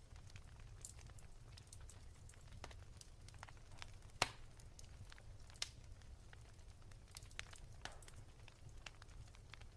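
Wood fire crackling softly over a low steady rumble: scattered small snaps, with one sharp pop about four seconds in and another a second and a half later.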